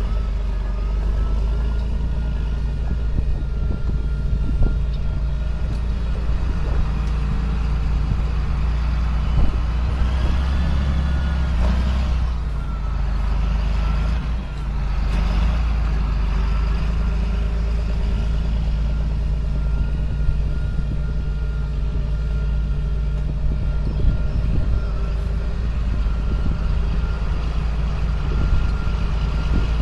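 2005 John Deere sprayer's diesel engine running steadily under way, a low drone with a thin steady whine above it that wavers briefly around the middle.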